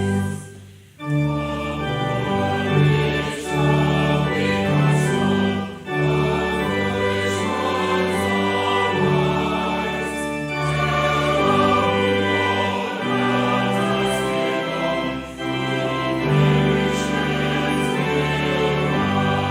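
Pipe or electronic church organ playing a hymn in held chords, with a choir singing along; the music pauses briefly between phrases.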